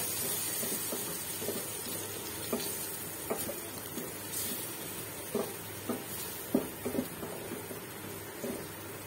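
Onions and spice powders frying in oil in a steel pot, sizzling steadily as they are stirred, while the spoon knocks and scrapes against the pot at irregular moments. This is the sautéing (kosha) stage of the spices.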